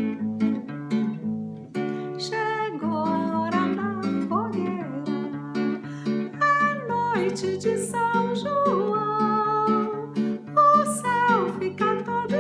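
Acoustic guitar strumming a festa junina march. About two seconds in, a woman's voice begins singing the melody in Portuguese over it.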